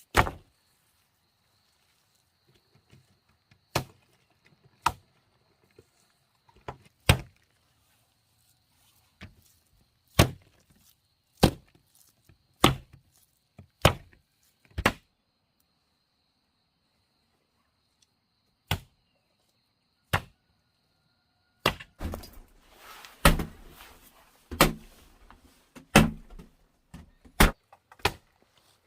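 Chopping wood with a blade: single sharp strokes, irregularly a second or two apart, then a quicker run of strokes with rustling near the end.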